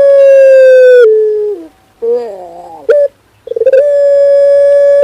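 Male puter pelung (domestic ring dove bred for a long coo) cooing loudly. The end of a long, drawn-out coo steps down and fades about a second and a half in, followed by a short lower wavering note. About three and a half seconds in, the next long coo begins, held at a steady pitch.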